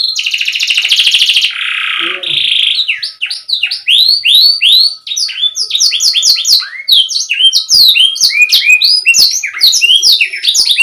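Domestic canary singing a fast, clear song. It opens with a rapid rolled trill for about a second and a half, then a short buzzy phrase, then runs of quickly repeated sweeping notes.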